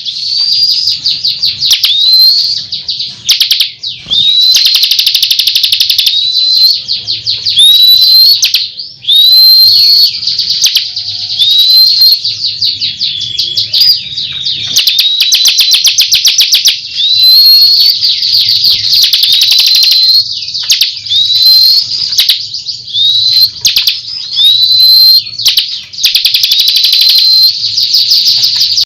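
Bar-winged prinia (ciblek) singing vigorously and without a break: fast rattling trills alternate with short, high, upward-swept notes.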